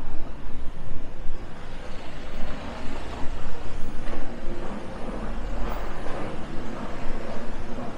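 Steady low rumble of a large motor vehicle running, with road noise.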